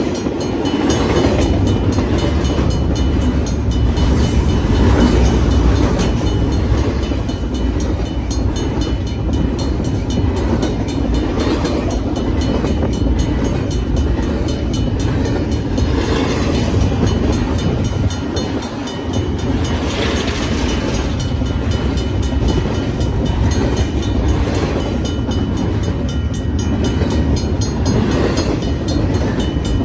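BNSF double-stack intermodal container train passing close by: a steady rumble of the well cars' steel wheels on the rails, with rapid clicks running through it.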